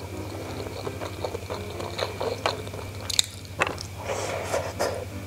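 Close-up chewing and biting of a sticky rice dumpling (bakcang): soft, wet, irregular mouth sounds with a few sharp clicks and bites partway through.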